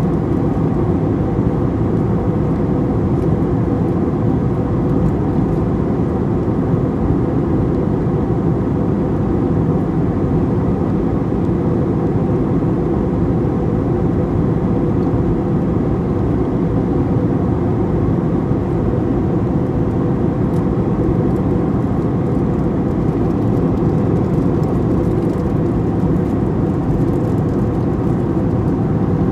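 Steady airliner cabin noise: an even, low rumble of engines and rushing air heard from inside the passenger cabin, with no changes.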